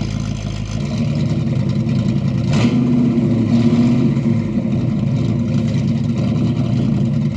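1980 Ford bullnose pickup's 400 cubic-inch V8 running. It gets louder about a second in, with a short sharp noise about two and a half seconds in.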